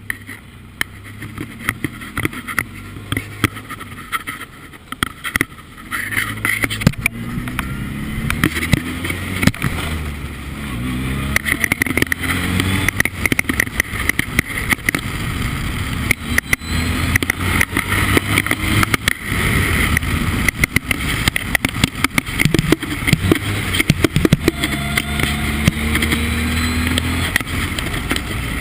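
Formula Ford race car engine under hard acceleration, the revs climbing and dropping back again and again as it shifts up through the gears. Many sharp crackles run over it throughout.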